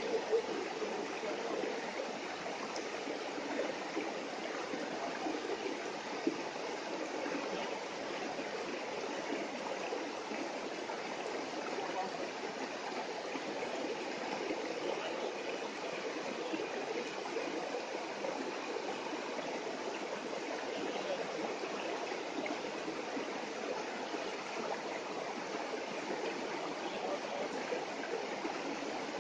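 Running water rushing steadily, as from a stream.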